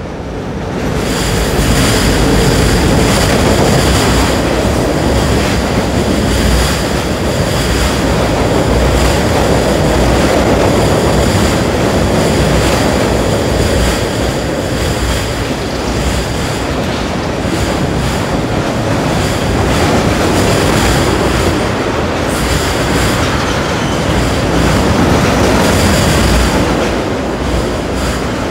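Freight train rolling across a steel trestle bridge: a loud, steady rumble and clatter of wheels on the rails and steel structure, with a thin high squeal of wheels over it. It swells up about a second in and carries on steadily.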